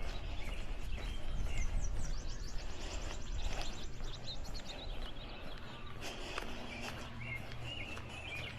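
Songbirds singing outdoors: a rapid high trill lasting about three seconds, starting a little under two seconds in, with other chirps near the end, over a steady low rumble.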